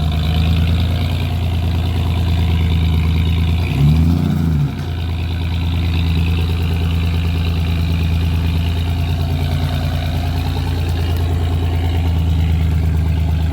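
A vehicle engine running steadily at low revs, with a short blip of revs up and back down about four seconds in.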